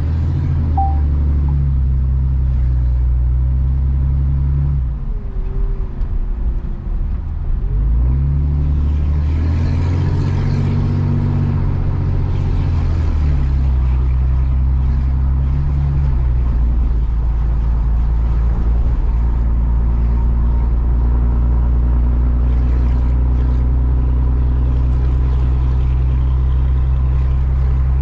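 A truck's engine and road noise heard from inside the cab while driving: a steady low drone whose pitch shifts in steps, dipping briefly about five seconds in before settling again.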